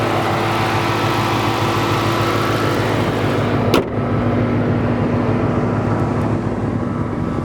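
2006 Chrysler 300 SRT8's 6.1-litre Hemi V8 idling steadily through its Flowmaster exhaust. A single sharp knock about four seconds in.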